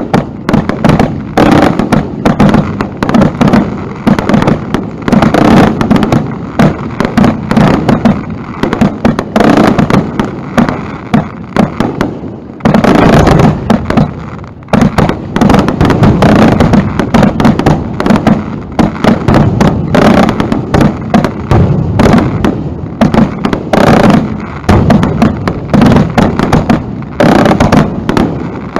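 Fireworks cakes (multi-shot repeater batteries) firing at close range in rapid succession: a dense, nearly unbroken barrage of launch thumps and bursting shells, with a brief lull about fourteen seconds in.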